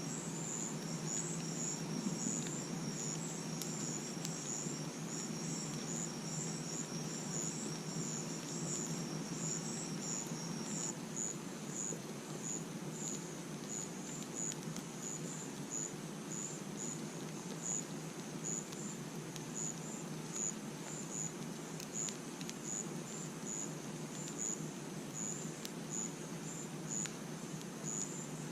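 Crickets chirping in a steady rhythm, with a second insect's continuous high trill that stops about eleven seconds in. Underneath, the steady low noise of a campfire with a few faint crackles.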